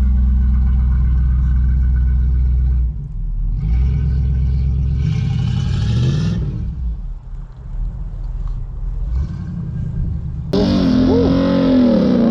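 Classic car engine rumbling low and steady, then easing off and revving up with a rising pitch as the car pulls away. About two seconds before the end a louder sound with a wavering pitch comes in.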